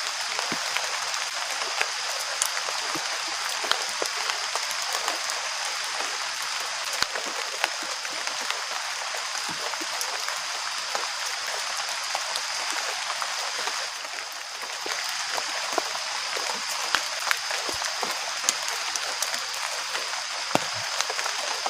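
Steady heavy rain falling, with many scattered sharp drop hits and a steady high-pitched note running through it.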